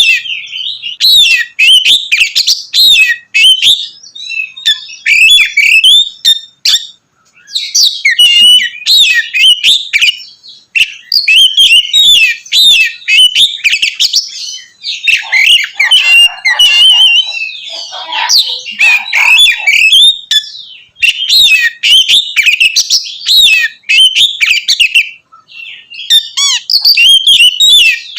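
Oriental magpie-robin (kacer) singing loudly in a continuous, varied stream of rapid whistles and chirps, with a few short pauses. About halfway through, lower, rougher rasping notes mix in with the whistles.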